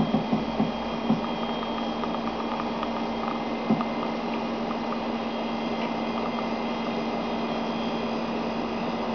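Homemade CNC router's stepper motor drive giving a steady low electrical whine, with a couple of faint clicks.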